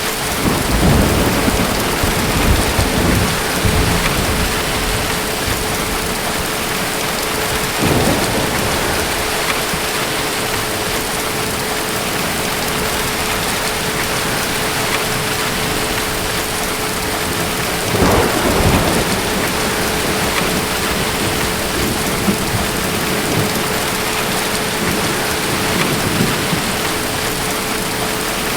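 Steady heavy rain with rolls of distant thunder: a long rumble right at the start, a shorter one about eight seconds in, and another around eighteen seconds in.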